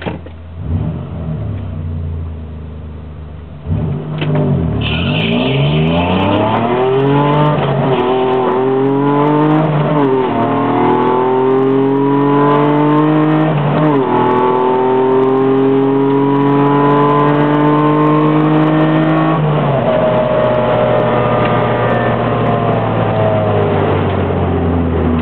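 Car engine heard from inside the cabin on a quarter-mile drag strip run. A few revs at the line are followed, about four seconds in, by a full-throttle launch. The engine note climbs and falls back at three upshifts, then drops and settles lower near the end.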